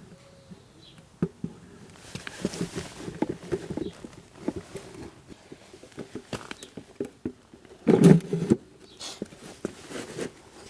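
Hand-handling noises: a string of small clicks, knocks and rubbing as a garden-railway model building is worked into place, with one louder thump about eight seconds in.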